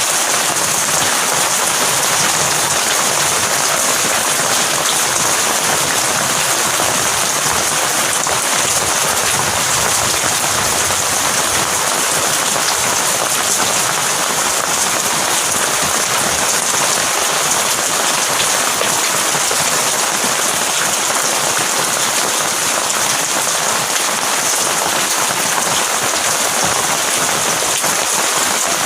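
Heavy rain falling steadily, a constant dense hiss of drops on surfaces with no thunder.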